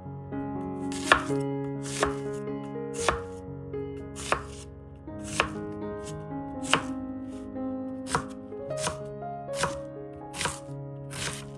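Kitchen knife chopping on a cutting board: about a dozen sharp, unhurried strokes roughly a second apart, over soft background music with held chords.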